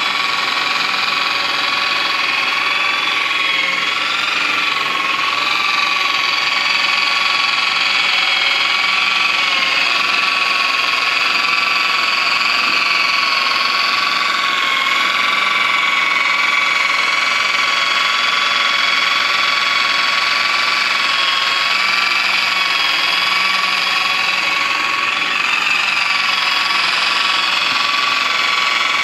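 Handheld power polisher's motor running steadily with a high whine that wavers slightly in pitch as it is worked across the metal.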